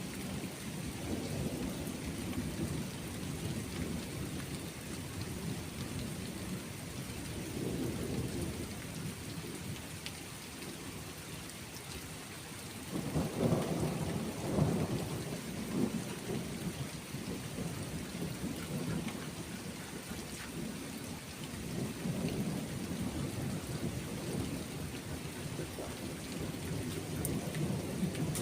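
Steady rain falling, with thunder rumbling low and rolling throughout. One louder thunder peal comes about halfway through.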